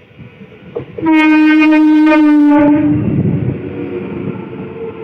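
EMU electric local train sounding its horn in one loud, steady blast of about a second and a half, which dips slightly in pitch as it ends. The rumble of the train's coaches running past close by follows.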